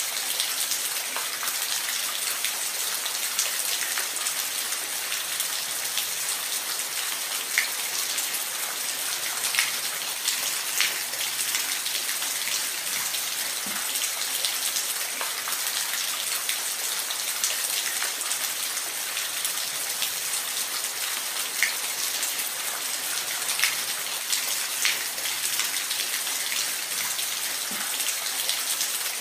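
Falling water with a steady hiss, dotted with scattered sharp splashes of single drops.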